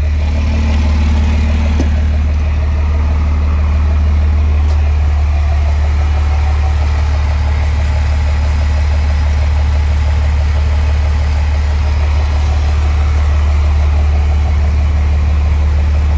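An engine running at a steady idle, with a constant low hum.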